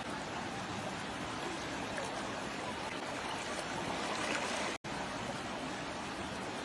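Steady rushing of flowing floodwater, cut by a momentary dropout to silence almost five seconds in.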